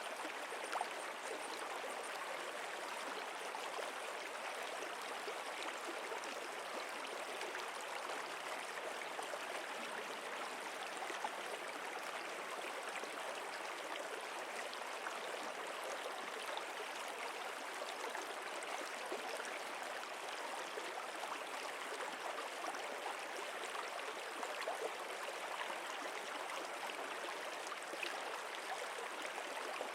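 Stream water flowing steadily, an even rushing wash with small splashes.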